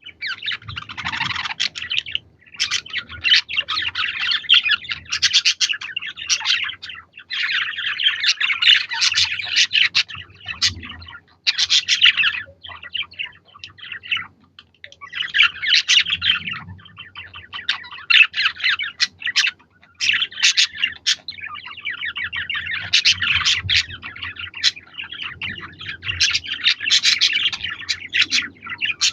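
Budgerigars warbling and chirping in fast, busy chatter, in bouts a few seconds long broken by short pauses.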